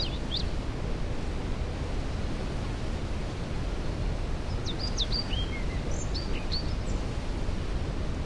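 Steady rushing of a waterfall, heavy in the low range. A songbird sings short high phrases over it at the very start and again about halfway through.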